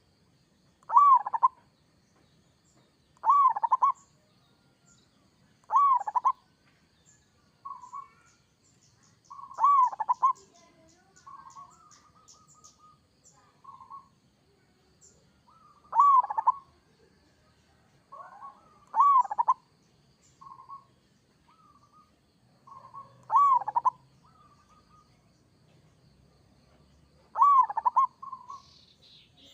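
Zebra dove (perkutut) cooing: a loud rolling coo phrase repeated every two to four seconds, with softer short notes between the phrases.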